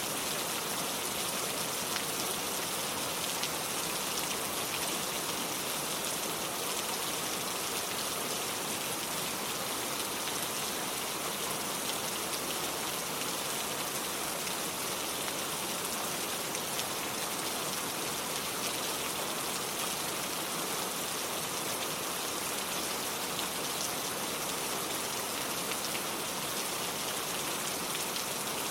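Steady rain falling on cobblestone streets, an even hiss sprinkled with fine drop ticks.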